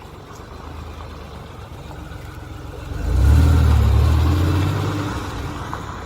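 A car engine accelerating past: a steady low hum swells suddenly about three seconds in into a loud, low engine note, which then slowly fades away.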